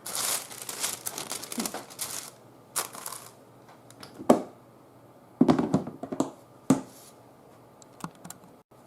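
Tissue paper rustling and crinkling as it is handled, in several bouts with a few small knocks between.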